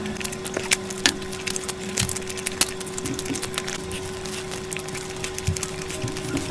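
Close-miked crunching and chewing of crisp food: many sharp, irregular crackles, over a steady hum.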